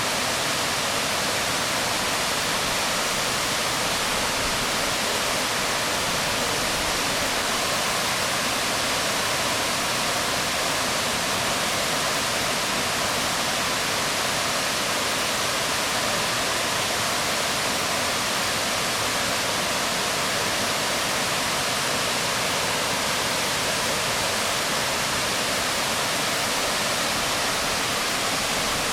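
Waterfall falling onto rocks: a steady, even rush of water that does not change.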